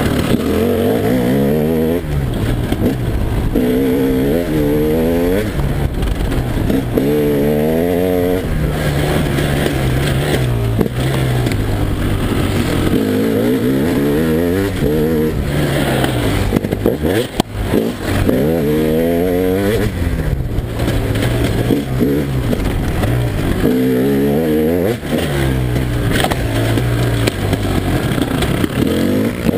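2011 KTM EXC 300 single-cylinder two-stroke engine revving hard and falling back over and over as the bike is ridden round the track, each rise a climbing whine lasting a second or two. About halfway through the engine briefly drops away before picking up again.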